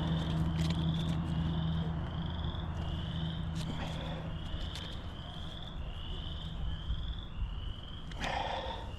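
A frog calling over and over in short rising chirps, about one and a half a second, over a low rumble of wind. A low steady hum fades out over the first two seconds.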